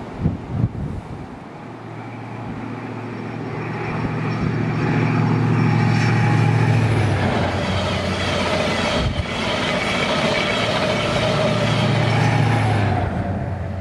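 A train approaching and passing the lineside: the noise builds for several seconds, holds loud with a steady low engine or motor note, and eases off near the end.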